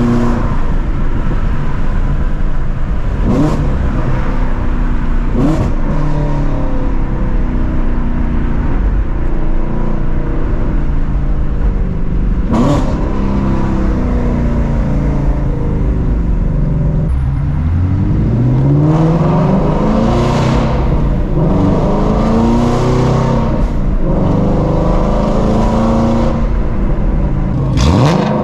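2016 Shelby GT350's 5.2-litre flat-plane-crank V8 running through catless long-tube headers, with a few short, sharp rev rises in the first half. From about two-thirds of the way in, it pulls hard with the revs climbing steeply.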